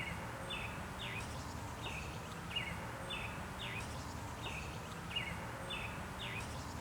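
A bird calling outdoors: a steady series of short downward-slurred chirps, repeated about twice a second, over a faint background hiss.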